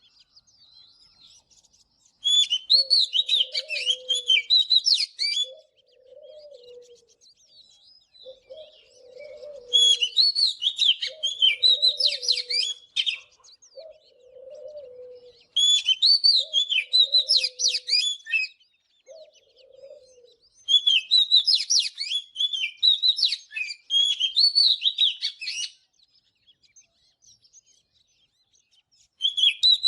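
Oriental magpie-robin singing in loud bursts of rapid, varied high notes, each three to five seconds long. There are five bursts, with short quieter pauses between them.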